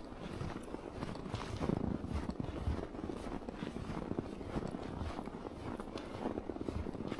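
Footsteps crunching in snow at a steady walking pace, a little under two steps a second.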